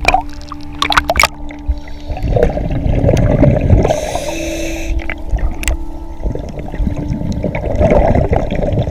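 Scuba diver breathing through a regulator underwater: a gurgling rush of exhaled bubbles, a short hiss of inhalation about four seconds in, then another bubbling exhalation. A few sharp clicks come in the first second, over a steady low hum.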